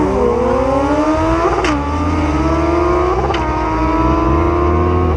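A vehicle's engine accelerating hard through the gears: its pitch climbs steadily and drops sharply at each upshift, about a second and a half in and again just after three seconds.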